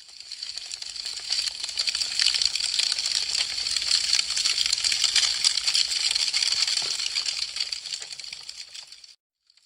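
Wood fire crackling, with dense rapid pops and snaps from burning branches. It fades in at the start and fades out shortly before the end.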